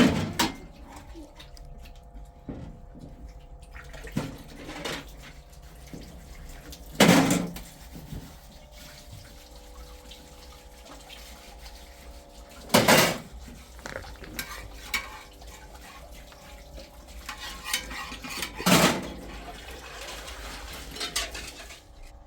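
Household handling sounds: scattered clinks and knocks, with four loud knocks about six seconds apart, over a faint steady hum.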